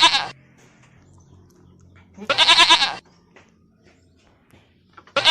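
Sheep bleating three times, about two and a half seconds apart. Each call is a loud, trembling baa lasting about half a second to a second.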